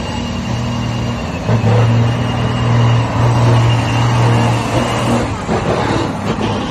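Large truck engine running loud and steady at high revs, easing off about five seconds in.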